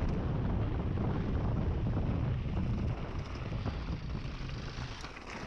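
Wind buffeting the camera microphone while riding: a dense low rumble that eases about three seconds in and drops further near the end.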